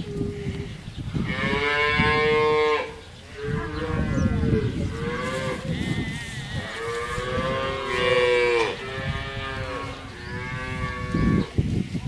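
Cows mooing: a string of about seven drawn-out moos one after another, the longest lasting about two seconds, over a steady low background noise.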